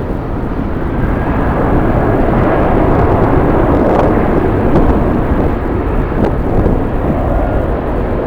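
Jet airliner engines running with a steady rumble and a faint whine, mixed with strong wind on the microphone.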